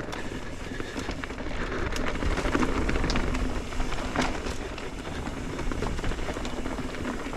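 Mountain bike riding over a rough dirt-and-rock trail: tyres rolling and crunching, with a few sharp knocks and rattles from the bike on rough ground.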